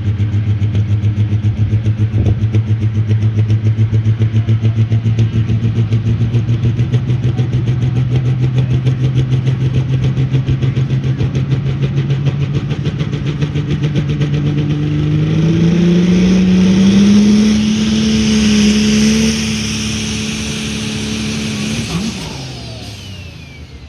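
A pulling truck's engine runs at a steady, pulsing low pitch, then revs up about fifteen seconds in and falls off near the end. The announcer then remarks that something is not quite right with the truck.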